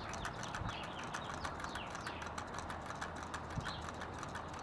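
Small homemade Stirling engine's crank, wire linkage and flywheel clicking in a quick, even rhythm as it keeps turning after being taken off its candle heat; with the heat gone it is running down and slowing.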